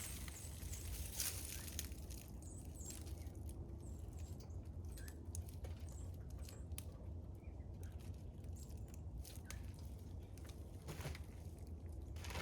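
Birdseed rattling and rustling as bird feeders are filled, with many small irregular clicks, and faint short high chirps of small birds now and then over a steady low rumble.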